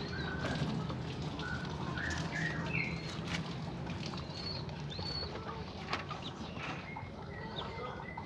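Caged ringneck doves fluttering their wings and shuffling, with scattered short, high bird chirps and a few sharp clicks.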